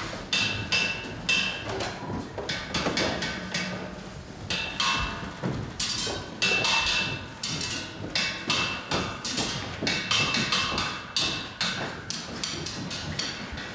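Many rapid, irregular wooden knocks and taps with a faint ringing tone in some strikes, sounding like hand percussion or wood blocks, during a stage changeover in a live theatre performance.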